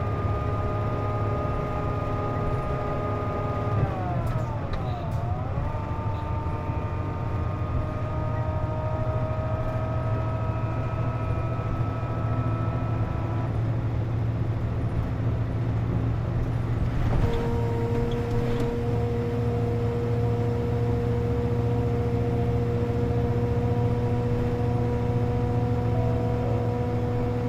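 Inside a Hino Rainbow JP (KC-JP250NTN) route bus under way: the engine runs with a steady rumble and several whining tones, the abnormal noise this bus makes with its air conditioning on. The whine dips in pitch and comes back up about five seconds in, and a little past halfway it changes to a new, steadier set of tones.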